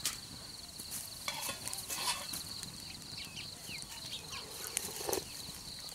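Rural outdoor morning sounds: a steady high insect buzz with scattered short bird chirps and clicks, and a brief lower animal-like call about five seconds in.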